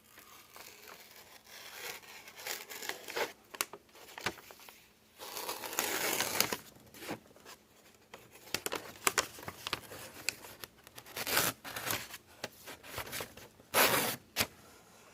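A Budk Mountain Man knife's blade slicing through packing paper, the paper crinkling and partly tearing in irregular strokes, loudest about six seconds in and again near the end. The tearing rather than clean cutting shows the edge still needs a little more sharpening.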